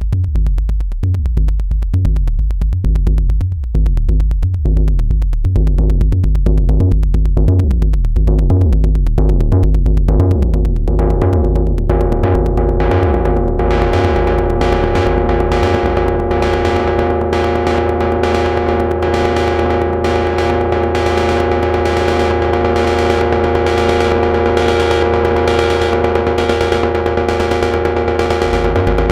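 Moog Subharmonicon analog synthesizer playing a fast, percussive sequenced pattern of rapid repeating bass notes. About twelve seconds in the sound grows brighter as steady higher tones come in over the pulse.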